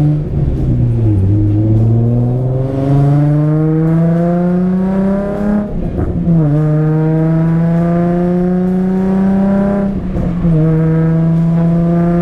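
Infiniti G37S's V6 engine accelerating hard from inside the car. The revs climb, drop at a gear change about six seconds in, pull up again, and drop at another shift about ten seconds in.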